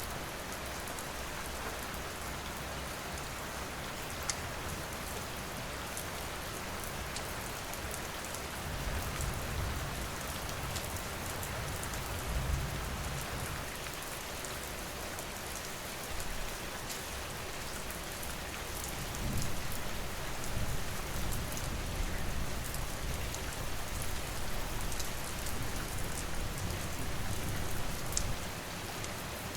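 Steady rain falling, with scattered sharp crackles and pops of a wood fire. Low rumbling swells come in about a third of the way through and again in the second half.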